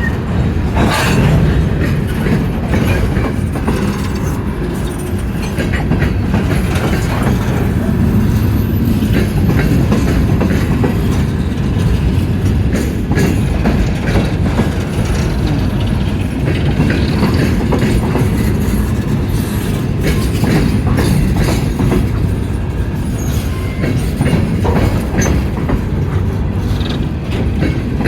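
Empty coal hopper cars of a freight train rolling past, steel wheels clacking over rail joints over a steady low rumble.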